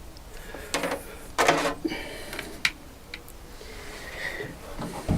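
A length of electrical wire being handled and straightened by hand: a few short rustles and clicks, the two loudest about a second and a second and a half in.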